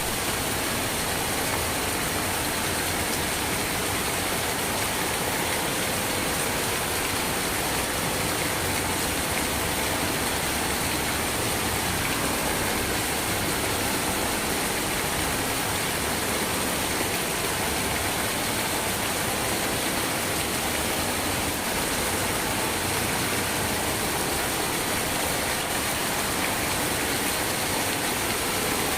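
Steady rain, an even unbroken hiss with no change in loudness.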